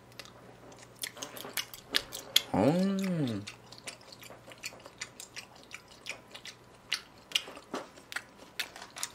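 Close-miked chewing of raw beef sashimi: many short wet mouth clicks and smacks, with a short hummed "mm" that rises and falls in pitch about three seconds in.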